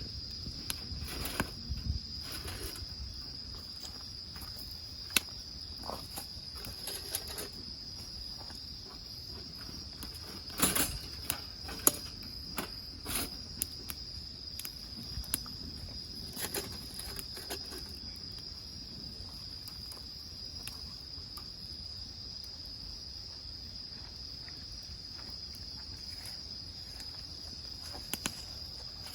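Insects chirring steadily in one high, unbroken tone, with a wood fire crackling underneath in scattered sharp pops, a cluster of them around the middle.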